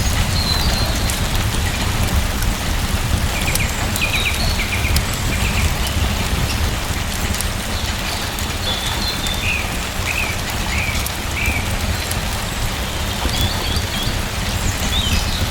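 Steady rain falling, with a deep low rumble under the patter. Short high bird chirps come in small runs, a few times through it.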